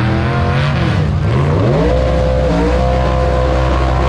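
Drag-racing car accelerating down the strip at full throttle: the engine note climbs, drops at a gear change about a second in, climbs again, then holds a high steady pitch.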